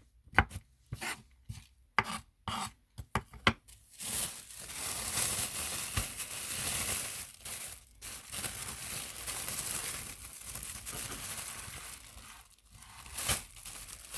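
Knife chopping food on a cutting board in quick taps for about four seconds, then a steady rustling and rubbing as the food is handled.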